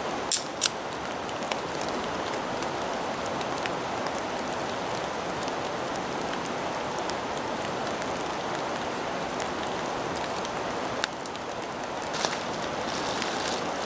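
Steady rain falling on the ground and surroundings, with two quick sharp scrapes about half a second in, a ferrocerium rod being struck for sparks onto wet birch bark tinder.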